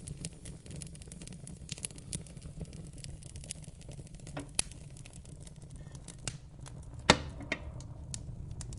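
Fireplace fire crackling: a low steady rumble underneath with scattered sharp pops and snaps, the loudest pop about seven seconds in.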